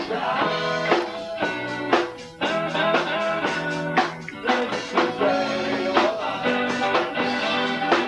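A live guitar, bass and drums trio playing a rock-blues song, with a brief drop in level about two seconds in.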